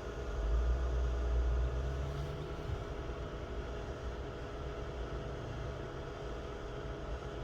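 Car engine idling steadily, with a heavier low rumble swelling for the first couple of seconds.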